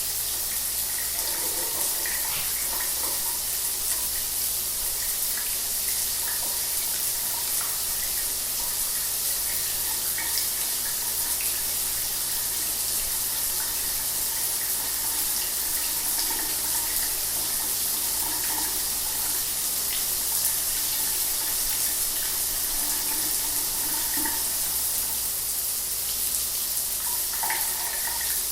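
Shower water running steadily, an even hiss of spray with small splashes.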